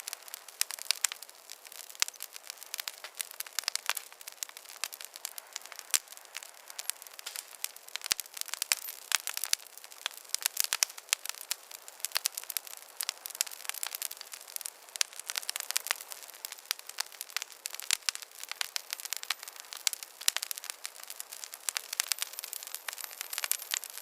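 Wood campfire crackling, with a dense, irregular run of sharp pops and snaps over a quiet hiss.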